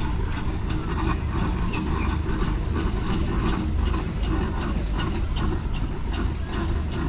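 Steam engines running as they move around a show arena: a steady low rumble with quick, irregular clicking and clanking over it.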